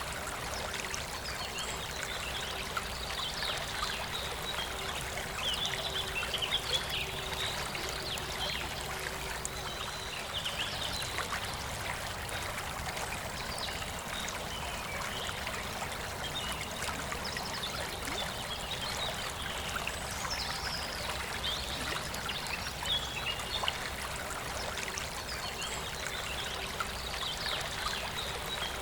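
A forest river flowing steadily, a continuous rush of running water, with birds singing in short phrases every few seconds over it.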